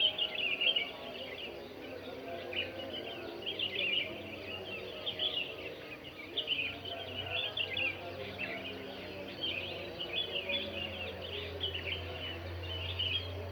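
Many birds chirping and singing at once: a dense dawn chorus of short, high calls overlapping without a break.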